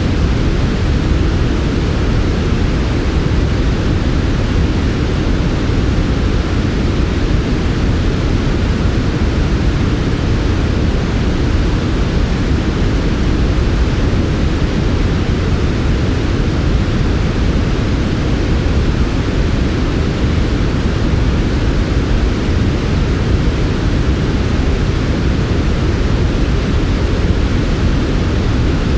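Steady, smooth synthetic white noise, a constant hiss weighted toward the low end, with no changes or breaks.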